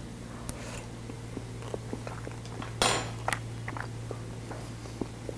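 A person chewing a mouthful of crisp baked börek, with small clicks and one short, louder clatter about three seconds in.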